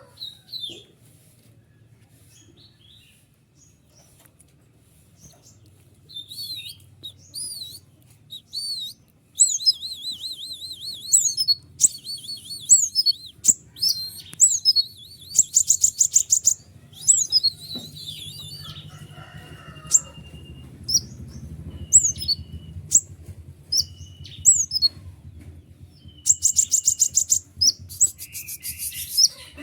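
Konin songbird singing a long, rapid twittering song: fast high trills and quick up-and-down sweeping notes in bursts, with a few short flat whistles about two-thirds of the way through. A faint steady low hum runs underneath.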